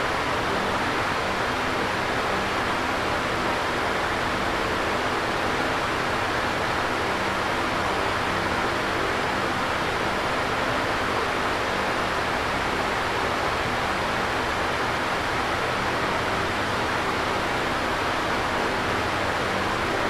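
Electric fan running steadily: an even rush of moving air with a faint low hum underneath.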